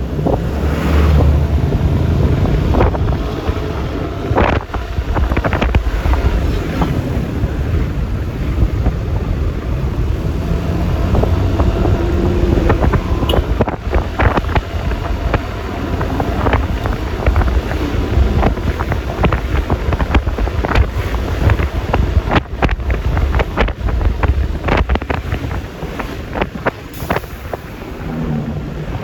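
Wind rushing over the microphone and road noise from a Yamaha Lexi LX 155 single-cylinder scooter under way, its engine running underneath, with many short knocks and clicks throughout.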